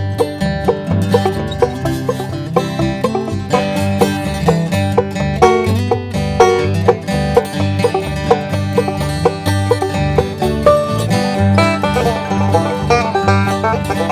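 Instrumental break of a bluegrass-style gospel hymn: quick plucked string picking, banjo to the fore, over a steady bass beat.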